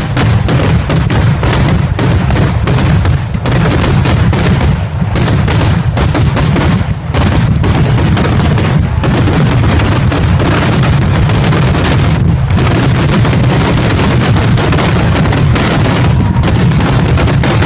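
Fireworks going off in a dense, rapid barrage, the blasts so close together that they run into a near-continuous loud crackling rumble. Brief thinner spots come around 5, 7 and 12 seconds in.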